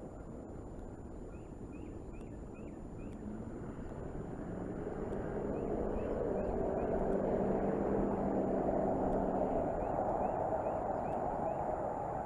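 A motor vehicle's engine running, growing louder over the first half and loudest in the middle before easing slightly. Faint short high chirps repeat in small groups over it.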